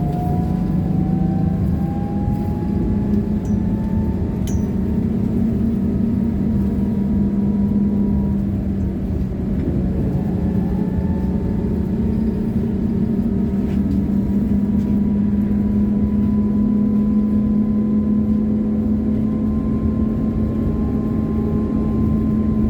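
Trolleybus heard from inside: the electric traction drive whines, its pitch gliding slowly upward as the bus gathers speed, over a steady rumble of tyres and running gear.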